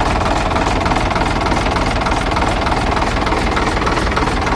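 Diesel engine of a FAW 280 truck running steadily with an even, fast beat, freshly fitted and started for a sound check.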